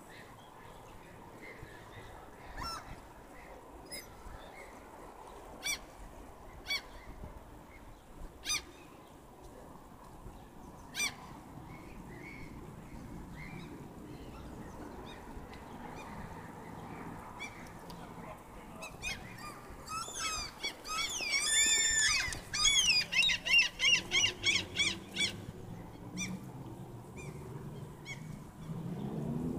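Large birds calling outdoors: a handful of single short calls a second or two apart, then a loud rapid run of calls lasting several seconds, over a steady low background hum.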